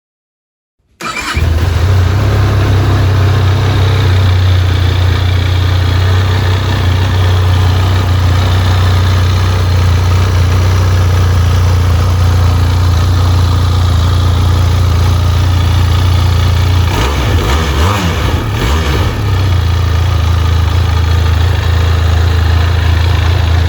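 Benelli TRK 502's liquid-cooled 500cc parallel-twin four-stroke engine starts suddenly about a second in and then idles steadily and loudly. Its note wavers briefly about three-quarters of the way through.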